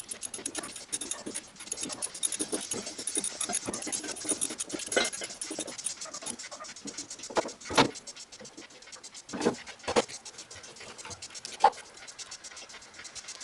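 Hand tools and metal engine parts clinking and knocking during assembly: a run of small clicks, then several sharper knocks in the second half.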